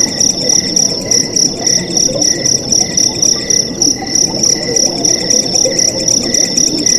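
Night crickets chirping in a steady pulsing rhythm, several insects calling together at different pitches, over the even rush of flowing water.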